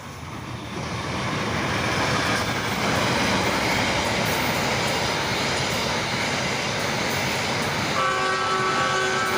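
A train running close by, its rumble and rolling noise building over the first two seconds and then holding steady. About eight seconds in, the train's horn sounds a held chord of several notes.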